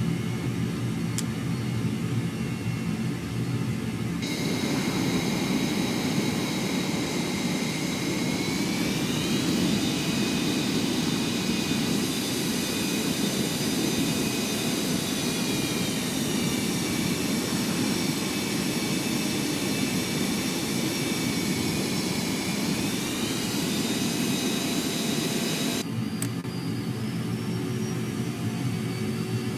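Blue Angels jet engines running with a high whine over a steady rush. The whine comes in abruptly about four seconds in, rises in pitch around nine seconds, falls again around twenty-three seconds, and drops away suddenly near the end.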